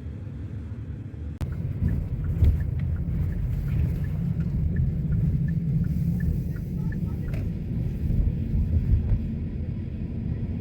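A steady low rumble, louder from a sudden step about a second and a half in, with a few faint clicks over it.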